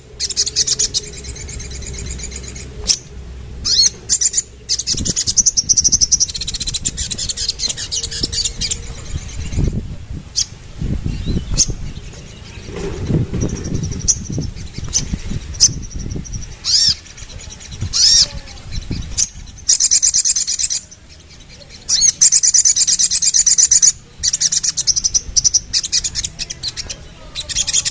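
A sogon (sogok ontong, the little spiderhunter) singing: long runs of rapid, high-pitched chirping trills, broken by short pauses.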